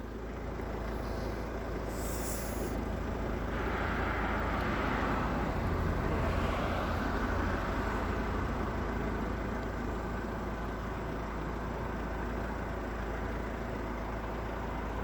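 Steady road traffic noise with a short hiss about two seconds in. A passing vehicle swells louder from about four seconds and fades after about eight.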